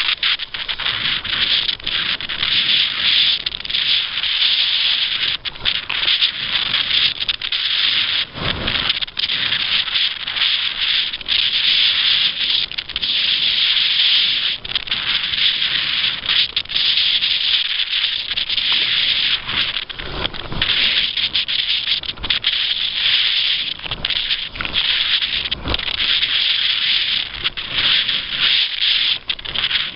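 Steady, fluttering high hiss of water rushing and spraying past a sailing kayak under way, with a few dull thumps of waves against the hull.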